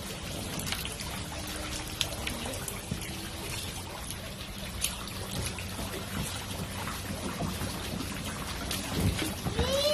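Water pouring and trickling steadily, with small splashes. A short high cry, rising and falling in pitch, near the end.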